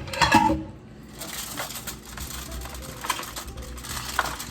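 Raw chicken pieces being handled and put into a pan: a short clatter just after the start, then a steady run of rustling handling noise with small ticks.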